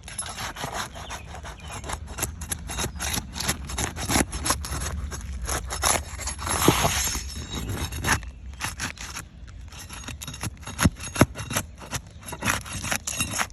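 Metal tool scraping and prying at asphalt roof shingles to get at the nails, a run of short sharp scrapes and clicks with a longer scrape about six to seven seconds in.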